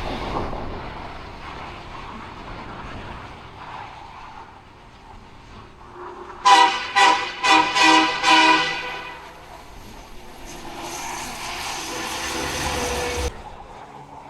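Vehicle horn sounded in five quick toots, the last a little longer, over a running truck engine. Later a steady hiss starts and cuts off suddenly near the end.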